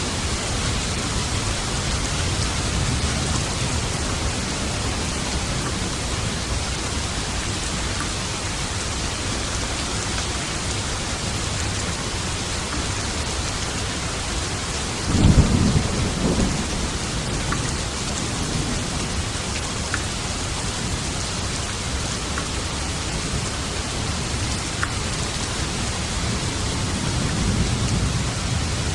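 Steady rain falling, with a sharp crack of thunder about halfway through that rumbles on for a couple of seconds, and a fainter roll of thunder near the end.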